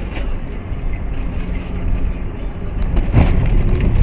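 A car on the move: a steady low rumble of engine and road noise that grows gradually louder.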